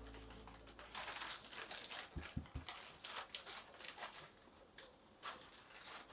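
Faint rustling and light clicks of handling, with a few soft low thumps about two seconds in.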